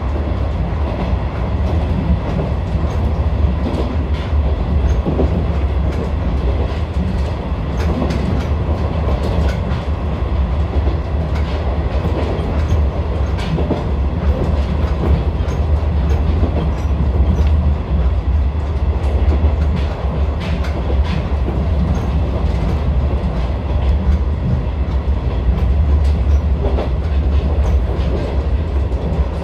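Izuhakone Railway Sunzu Line electric train running along the track, heard from inside the front of the car: a steady low rumble with irregular clicks as the wheels pass over rail joints.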